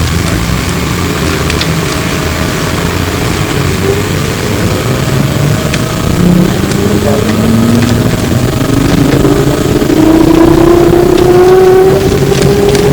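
Flyer E902 trolleybus heard from inside: the electric traction motor's whine rises steadily in pitch as the bus accelerates from about halfway in, over a low road rumble and light rattles of the body.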